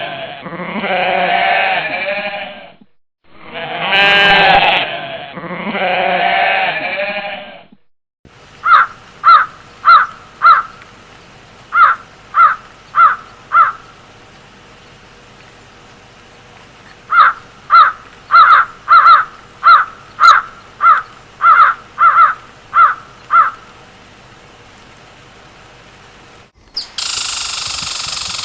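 Two long, wavering bleats, then a run of short, sharp calls repeated about two a second that starts and stops in bursts. A burst of noise comes in near the end.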